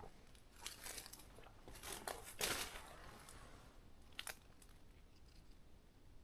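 Footsteps of a walker crunching on a forest trail, a handful of irregular steps with the loudest about two and a half seconds in, fading out after about four and a half seconds.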